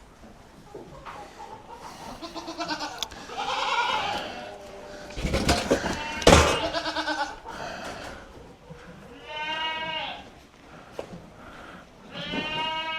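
Goats bleating again and again, about five wavering calls spread across a dozen seconds. A sharp knock is heard about six seconds in.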